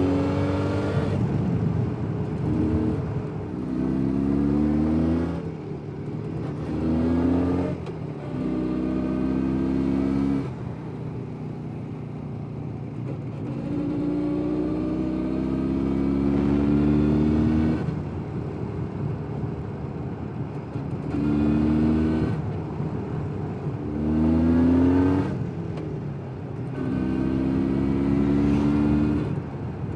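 Jawa 350 type 638 motorcycle's two-stroke twin engine pulling through the gears on the move. Its pitch climbs in each gear and drops at each shift, several times over, with quieter stretches where the throttle is eased off.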